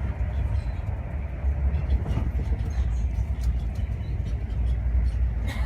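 Steady low rumble of a moving train, with a few faint light clicks.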